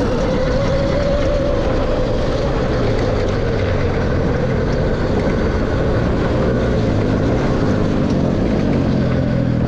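Dirt bike engine running at a steady speed.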